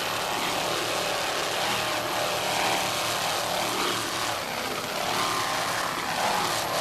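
Offshore racing powerboat engines running at speed in a steady, noisy roar, with the pitch wavering a little late on.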